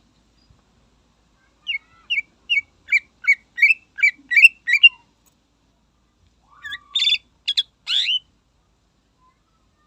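Green leafbird (cucak ijo) singing: a run of about ten short, quick whistled notes, about three a second, then after a pause a few louder, harsher notes.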